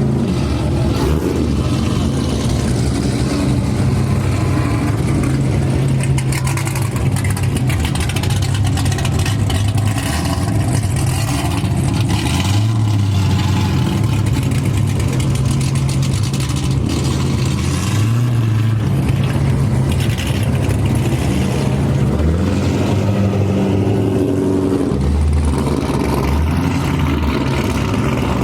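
Car engines idling loudly and deeply, with the pitch rising briefly a few times as an engine is revved.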